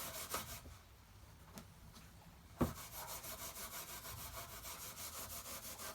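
Wire wool rubbing wax into the wood of an old wooden toolbox in quick, even back-and-forth strokes. The rubbing stops for a couple of seconds about a second in, then a single sharp knock is heard and the strokes start again.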